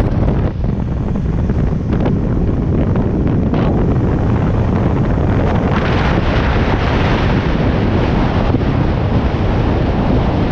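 Heavy wind buffeting the microphone over the running Mack diesel truck engine and road noise during a test drive; the wind hiss grows stronger about six seconds in.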